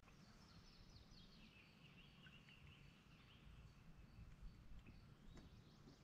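Near silence, with a songbird singing faintly: a run of quick, high chirping notes through the first half, over a faint low rumble.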